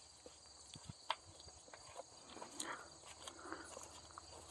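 Quiet ambience: a steady high chorus of insects with a few faint clicks and light scrapes of handling.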